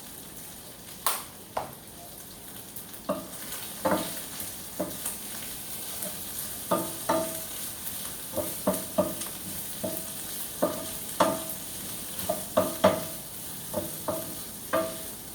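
A utensil stirring and tossing chicken in a hot pan for pansit gisado, clinking against the pan in irregular short, ringing knocks about one or two a second. A steady frying sizzle runs underneath.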